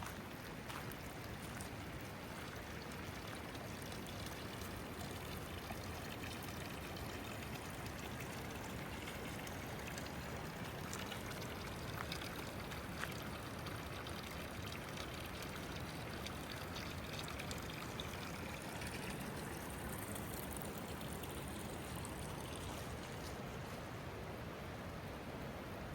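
Steady pouring, trickling water, with scattered ticks of raindrops.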